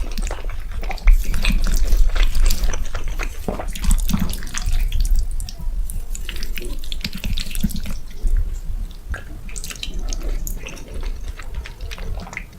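Close-miked eating of wet, saucy food: dense, irregular wet mouth smacks and slurping clicks.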